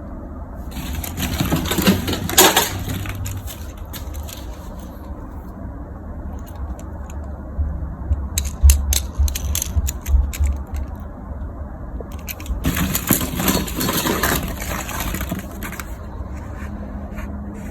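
Plastic toys being handled: two spells of rustling, clattering noise, with scattered sharp clicks between them.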